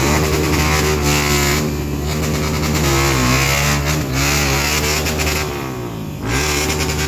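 Dirt bike engines revving, their pitch rising and falling repeatedly.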